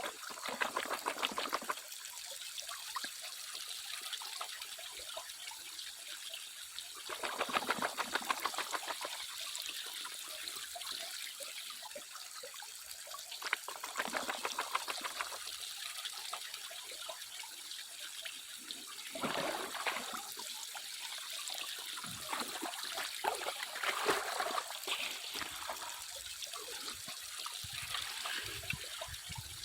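Water trickling steadily, with louder splashing and sloshing bouts every few seconds.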